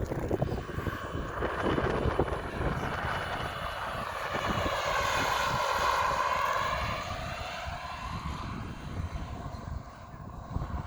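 Giant-scale RC Bell 429 model helicopter in flight: a whining engine and rotor note that dips in pitch and then rises again, loudest about halfway through. Low rumble of wind on the microphone underneath.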